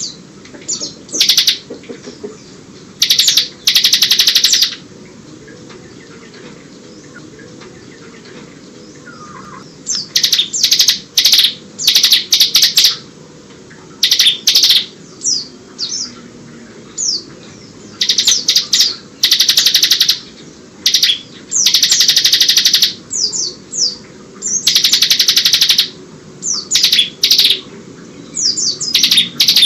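Bar-winged prinia (ciblek) singing in bouts of fast, rattling trills ('ngebren') mixed with phrases copied from a white-eye (pleci). The bouts are separated by pauses of several seconds.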